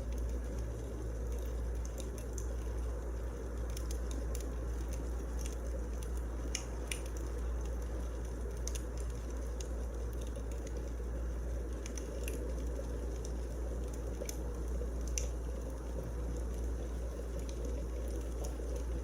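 Wood fire burning in a fireplace: a steady low rumble with scattered, irregular sharp crackles and pops from the burning logs.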